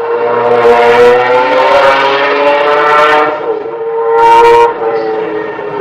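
Car engine running hard at high revs, its pitch climbing as the car accelerates, with a brief dip about halfway through and two short bursts of hiss.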